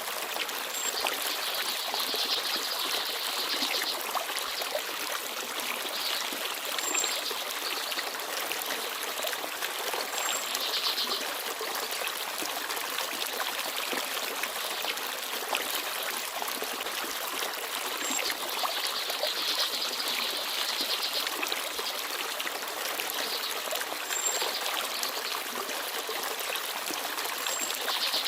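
Small forest stream babbling and trickling steadily over stones. Short, high bird chirps come through now and then.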